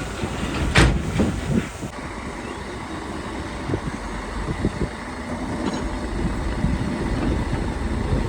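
Heavy earthmoving machinery running at a steady low rumble, with a loud knock about a second in and two smaller knocks just after.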